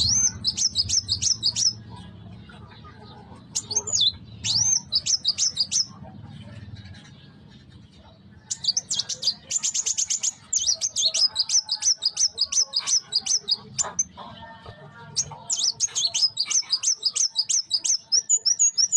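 Young kuwul bird singing: bursts of rapid, high chirping notes, several a second, broken by short pauses, with a longer run through the second half.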